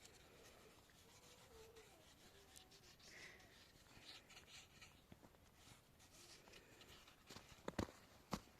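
Faint rustling and scraping, with a few sharp clicks near the end.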